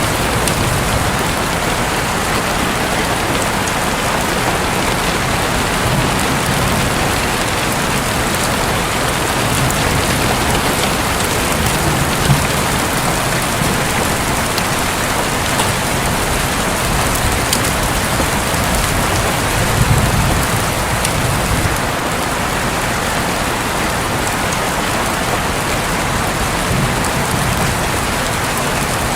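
Heavy rain falling steadily on a roof, a dense even hiss, with soft low rumbles of distant thunder swelling now and then, most clearly about twenty seconds in.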